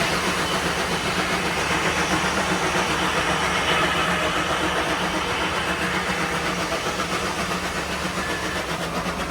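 An engine running steadily with an even, quick pulse of about five or six beats a second.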